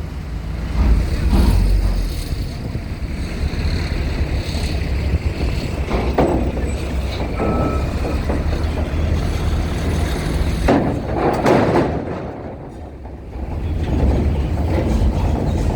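Heavy vehicles such as trucks and buses running, a steady low engine rumble, with brief louder bursts about six and eleven seconds in.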